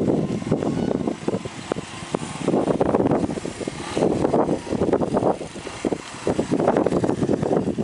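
Suzuki RV125 Van Van motorcycle's single-cylinder four-stroke engine running, rough and uneven, swelling and easing every second or two.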